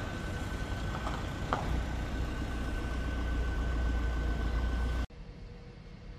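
Car engine running low as the gendarmerie car drives slowly past below, a deep rumble that grows louder, with a faint steady high tone and a couple of light clicks. It cuts off abruptly about five seconds in, giving way to a much quieter background hum.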